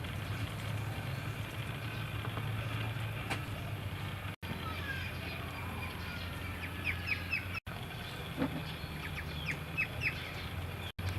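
Short, high chirps of small birds, several in quick runs in the second half, over a steady low hum. The sound drops out briefly three times.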